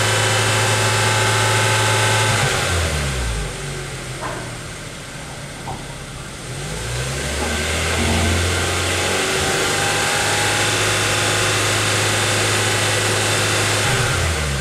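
Kia Ceed 1.6 L G4FG four-cylinder petrol engine heard at the exhaust tailpipe, held at raised revs. About three seconds in it drops back to idle, is revved up again around seven seconds in and held steady, then drops once more near the end.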